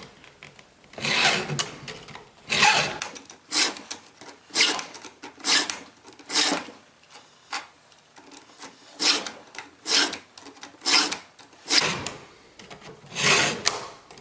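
Hand file rasping on the steel teeth of a Stihl MS290 Farm Boss chainsaw chain, about a dozen forward strokes roughly one a second with a short pause midway, the file lifted clear on each return stroke.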